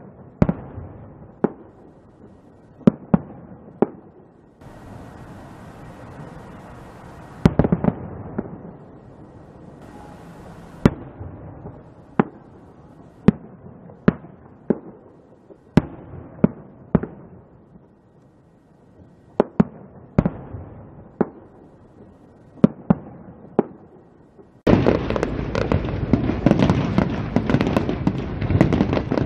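Aerial firework shells bursting one after another at uneven intervals, roughly one sharp bang a second, each with a short echoing tail. About 24 seconds in it changes abruptly to a much louder, dense barrage of many shells bursting and crackling at once.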